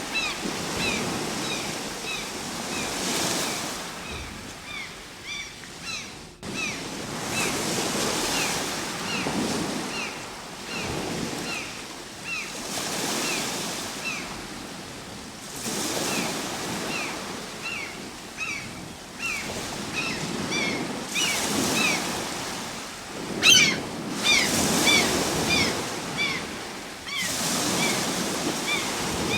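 Ocean waves breaking and washing up the shore, swelling and fading every few seconds. Over them, a small bird repeats a short falling chirp about twice a second, with a quick flurry of chirps about 23 seconds in.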